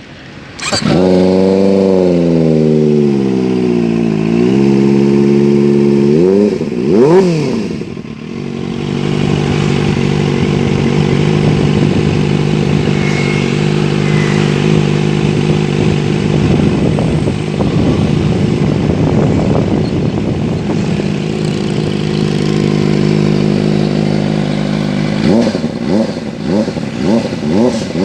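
Kawasaki ZX-25R 250 cc inline-four motorcycle engine through an Akrapovic aftermarket exhaust, revved up and down a couple of times, with a sharp blip about seven seconds in. It then runs steadily for about fifteen seconds before a string of quick throttle blips near the end.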